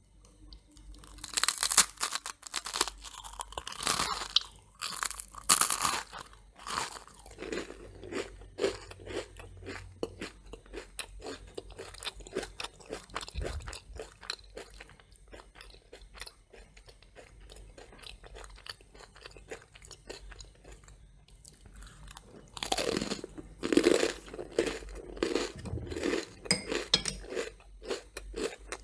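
Someone biting and chewing crunchy toast: two spells of loud crunching, one just after the start and one about three-quarters of the way through, with quieter chewing in between.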